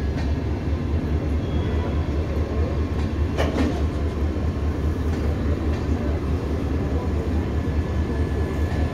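LHB passenger coaches of an express train rolling past a station platform: a steady low rumble of wheels on the rails. A brief sharp sound rises above it about three and a half seconds in.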